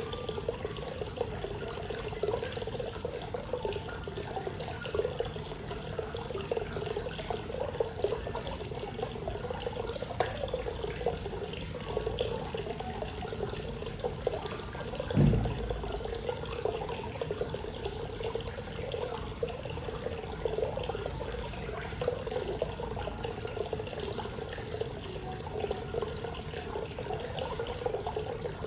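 Hot spring water pouring steadily into an outdoor bath, an even splashing flow. About halfway through there is one brief low thump, the loudest moment.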